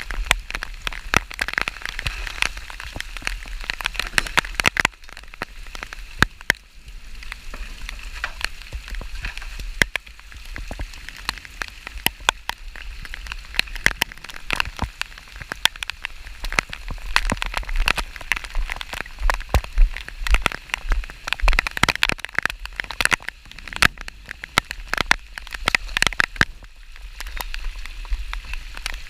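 Rain falling steadily, with many irregular drops ticking sharply close to the microphone.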